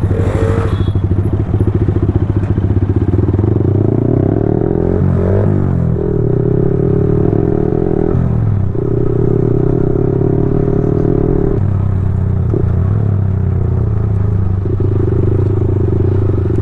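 Yamaha R15 V4's single-cylinder engine running through a Leovince full-system exhaust while riding at a steady pace. The engine note changes twice, about five and eight seconds in, then holds steady again.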